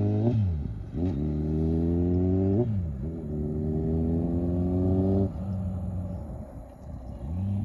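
2008 Kawasaki Concourse 14's inline-four engine accelerating through the gears. The revs climb, drop sharply at an upshift, and climb again, with two upshifts in all. About five seconds in, the throttle closes and the engine settles to a lower, steady run.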